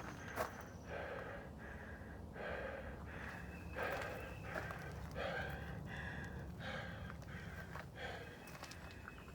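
A runner's hard, rhythmic breathing in mid-run, a breath about every two-thirds of a second, with his footsteps underneath.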